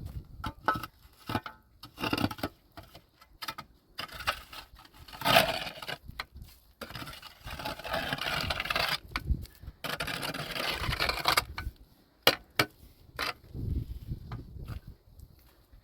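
Irregular knocks and clatter of objects being handled, with a longer stretch of scraping or rustling noise in the middle.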